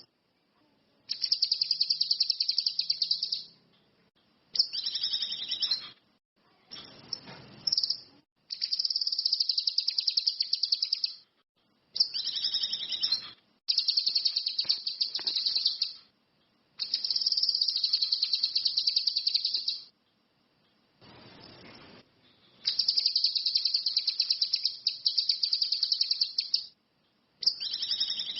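Cucak kinoi (ranti mas) songbird singing in high, rapid chattering trills, each phrase one to three seconds long, repeated about nine times with short pauses between.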